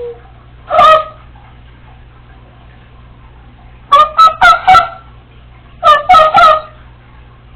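Congo African grey parrot giving short pitched calls: one about a second in, then a quick run of four, then three more near the end.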